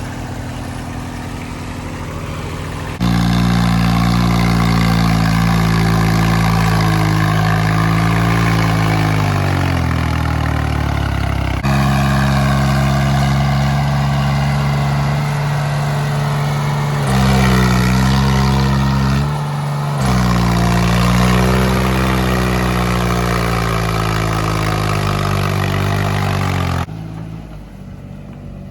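A diesel tractor engine running hard under load, its pitch sagging and rising as it labours, with several sudden jumps in level. The sound of a tractor straining to pull through deep mud.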